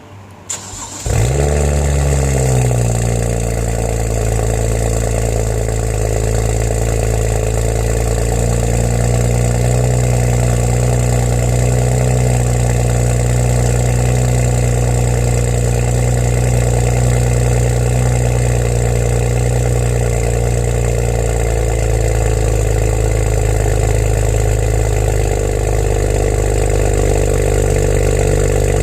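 2008 BMW 335i's twin-turbo straight-six cold-started through a VRSF turboback exhaust: a short crank, then it catches about a second in. It flares and settles over the next few seconds into a steady, raised cold-start idle.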